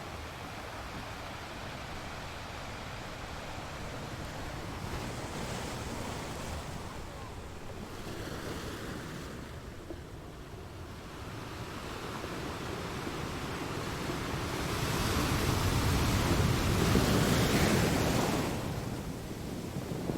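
Sea waves washing against rocks, the surf swelling and ebbing, with one big wave building from about two-thirds of the way through, peaking, and falling away near the end.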